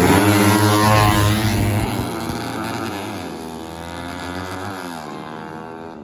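Drag-racing motorcycle engines at full throttle pulling away and fading into the distance, the pitch climbing and dropping back several times as they shift up through the gears.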